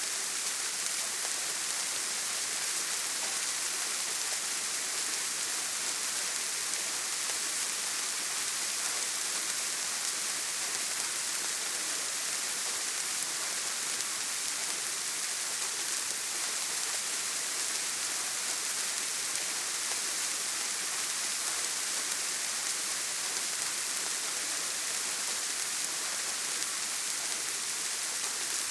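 Steady rain on a tin roof: an even, unbroken hiss with no thunder.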